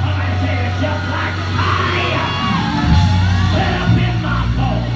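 Church praise music with a held low note underneath, and voices shouting and singing over it.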